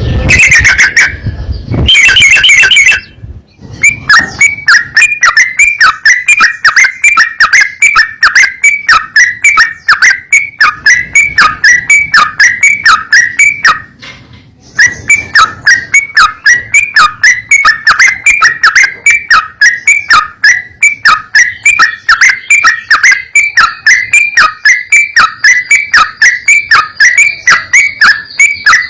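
Yellow-vented bulbul (trucukan) call: a loud, rapid run of short whistled notes repeated at about three a second, pausing briefly about halfway through.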